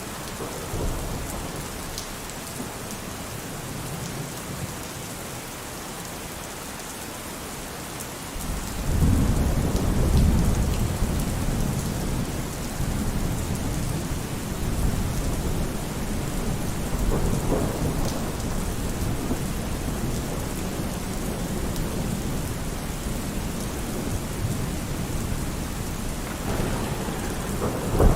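Steady heavy rain with thunder: a deep roll of thunder breaks in suddenly about eight seconds in and keeps rumbling with swells, and a brief sharper clap comes near the end.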